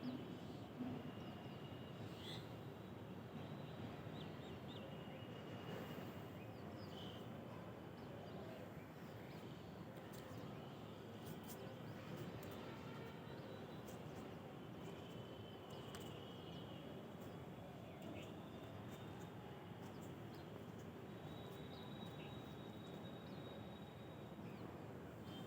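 Faint outdoor morning ambience: a steady low background rumble with scattered short bird calls and chirps throughout.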